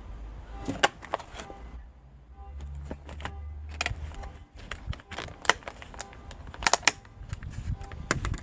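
Close-up eating sounds: a doughnut being bitten and chewed, heard as an irregular series of sharp mouth clicks and smacks over a low steady hum.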